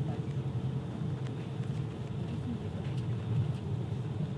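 ICE high-speed train running: a steady low rumble with a few faint clicks.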